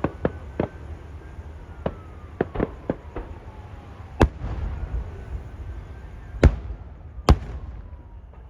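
Fireworks display: a string of sharp bangs from bursting shells, scattered irregularly, with the three loudest bangs about four, six and a half, and seven seconds in.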